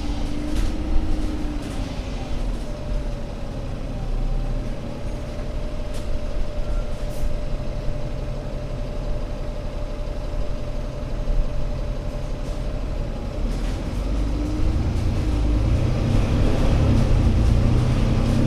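ADL Enviro500 MMC Euro 6 double-decker bus's diesel engine running with a steady low rumble and a thin whine held through the middle. The engine grows louder over the last few seconds.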